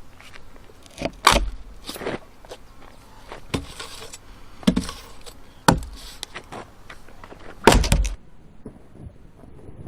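Firewood being chopped by hand: about five irregularly spaced sharp knocks of a blade striking wood, the heaviest one near the end.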